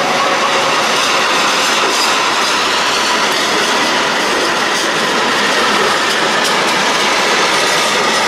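Freight train wagons rolling past close by, their wheels clattering over the rails with scattered sharp clicks and a thin steady wheel squeal over a dense rumble.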